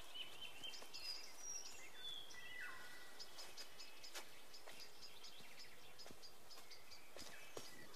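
Faint birdsong: small birds chirping repeatedly, with a couple of short whistled notes about two seconds in, over a quiet steady outdoor background.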